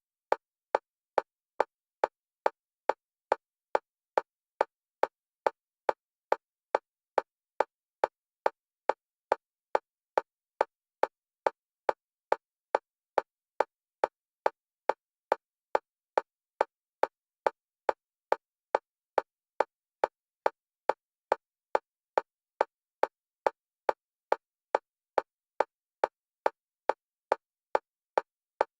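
Synthetic single-pitch metronome click repeating at an even, fast pace of about two to three clicks a second, with silence between clicks. The clicks alternate between the left and right stereo channels, as used for EMDR bilateral stimulation.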